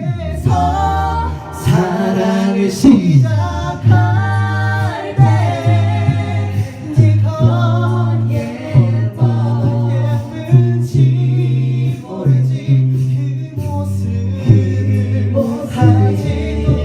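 Mixed a cappella vocal group singing a ballad in harmony, with a low sung bass line underneath and sharp percussive hits keeping a regular beat.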